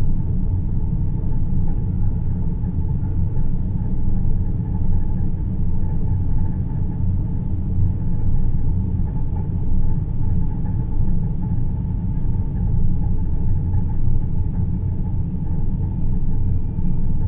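Space-themed sleep ambience: a steady, deep rumbling noise that swells and eases slightly, with a fainter hum higher up.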